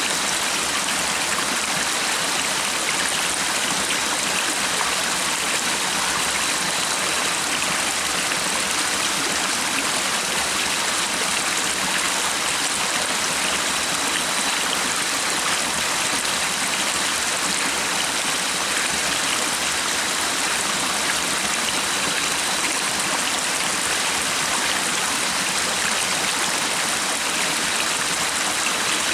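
Stream water flowing steadily in an even, continuous rush.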